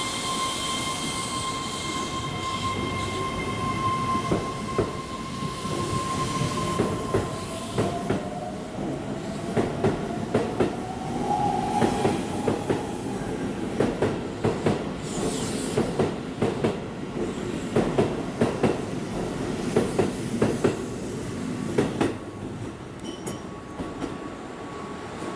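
Keihan electric train moving through the station. It starts with a steady high wheel squeal, then a whine slowly rising in pitch, then a long run of wheel clacks over rail joints that dies away a few seconds before the end.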